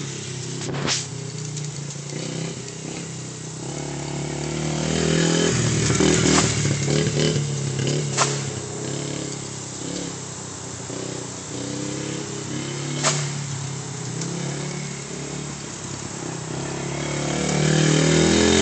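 Yamaha TT-R50 50cc dirt bike engine running, rising and easing off in level as it rides, loudest about six seconds in and again near the end. A few sharp clicks stand out over it.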